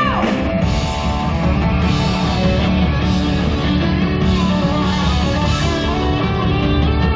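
Live rock band playing a heavy, electric-guitar-led instrumental passage over bass and drums.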